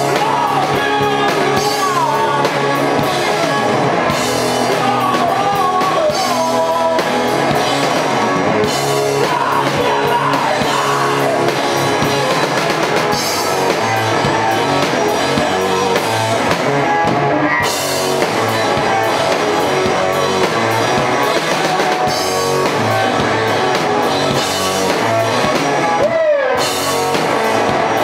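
Live rock band playing loudly with drums, electric guitar and a singing voice.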